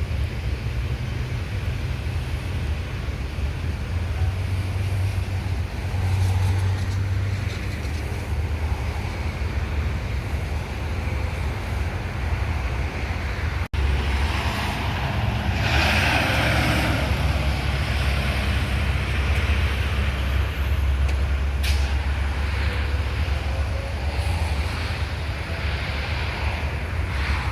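Road traffic with heavy trucks passing: a steady low engine and tyre rumble, growing louder as a vehicle goes by about halfway through, with a brief sharp sound a few seconds later.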